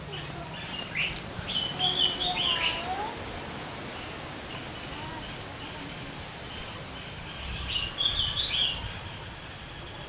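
Small birds chirping in a thicket: two bursts of quick, high chirps, about two seconds in and again near eight seconds in. A few sharp clicks come in the first second.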